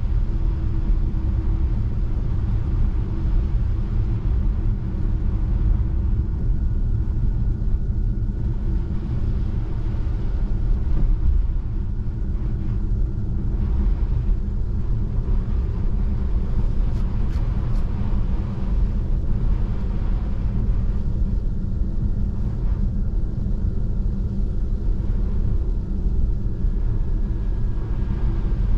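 Steady low rumble of tyre and road noise from a Tesla Model 3 driving over a snow-covered road, with a few faint high ticks about two thirds of the way in.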